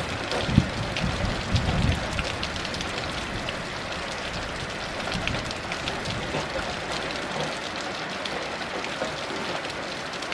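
Heavy rain falling steadily, an even hiss dense with the patter of individual drops. Low thunder rumbles in the first two seconds, then fades, leaving only the rain.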